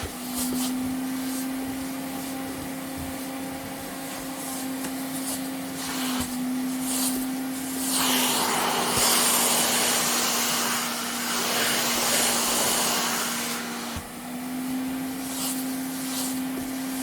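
Vacuum cleaner running: a steady motor hum under a rush of air. For about six seconds in the middle, the air rush grows louder and the hum drops slightly in pitch, then both return to how they were.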